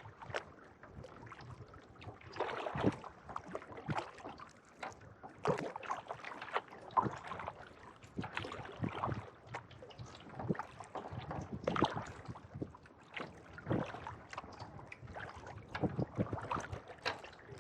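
Kayak paddle blades dipping and pulling through calm lake water in a steady stroke rhythm, a splash-and-swish about every second and a half, over light wind.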